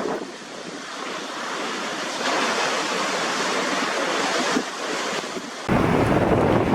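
Storm wind and surf, a steady rushing noise that grows louder about two seconds in. Near the end it cuts abruptly to wind buffeting the microphone with a deep rumble.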